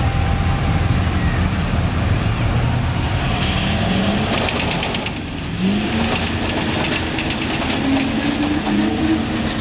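Pulling tractor's engine running hard under load, its pitch rising twice about halfway through, with a rapid rattle over it in the second half.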